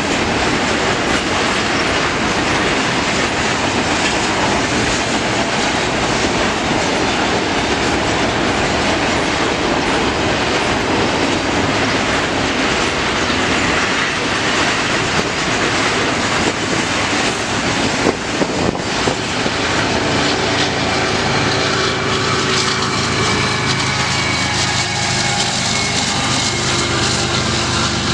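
CN intermodal freight train rolling past, its wheels clacking over the rail joints in a steady loud rumble. A few sharp knocks come about two-thirds in, and steady whining tones join near the end.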